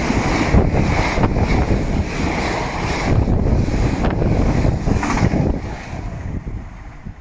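A train rushing past at speed, with wind buffeting the microphone and occasional sharp knocks from the wheels, fading away near the end.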